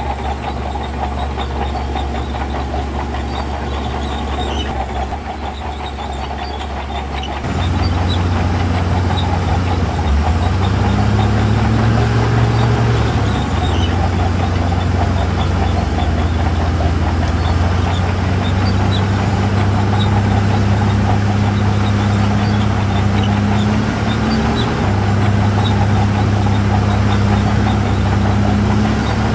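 Diesel engine of heavy earthmoving equipment running steadily with a strong low drone, its pitch stepping up and down as the machine works. The sound jumps abruptly louder about seven seconds in.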